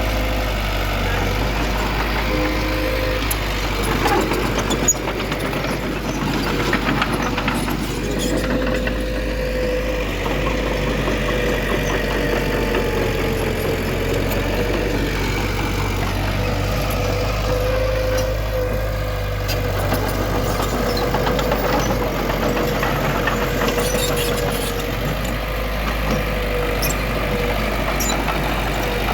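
Diesel engine of heavy earthmoving machinery running steadily, with a wavering whine and a few light clicks and knocks.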